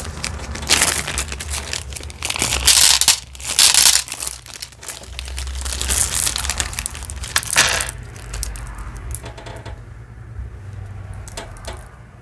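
Plastic packaging crinkling and small jewelry pieces clicking together as they are handled, in several loud bursts over the first eight seconds and quieter after.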